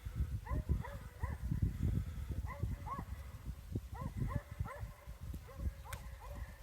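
Hunting hounds baying while running a coyote's trail: short rising-and-falling bawls in bunches of several a second, over a low rumble.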